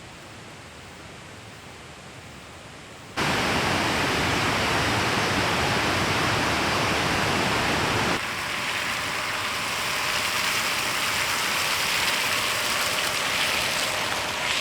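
Steady rushing water noise, faint at first, then cutting suddenly to much louder about three seconds in and easing slightly about eight seconds in.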